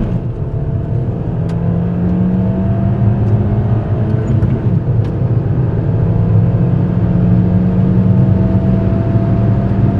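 Peugeot 206 1.6 16v four-cylinder petrol engine pulling under hard acceleration, its pitch climbing slowly and steadily as a higher gear winds up.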